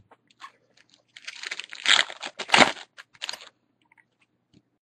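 Crinkling and tearing of a foil trading-card pack wrapper being ripped open, with the loudest rips about two seconds in, then a few light ticks of handling.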